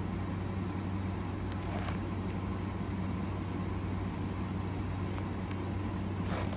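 Cricket chirping continuously in a rapid, even pulsing high note, over a steady low electrical hum.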